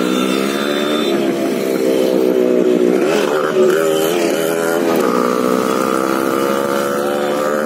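An engine running steadily, its pitch rising and falling slightly.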